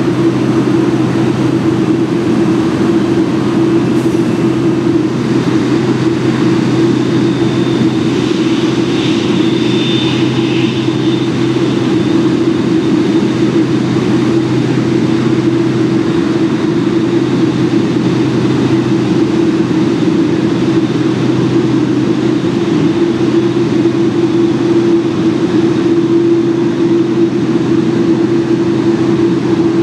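Steady, loud engine drone with two even hums, one low and one higher, that does not change. A faint thin tone sounds briefly about ten seconds in.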